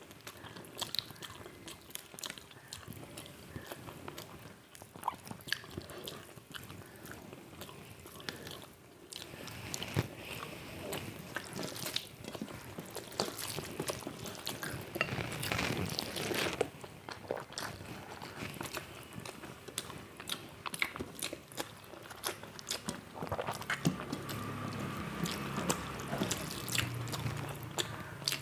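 Close-up eating sounds: steady chewing and biting, crunching fried food, with wet smacking from water-soaked rice.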